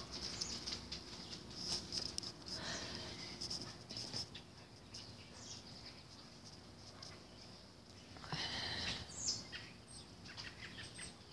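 Faint birds chirping over a steady high-pitched background drone, with a short, louder cluster of chirps about three quarters of the way through.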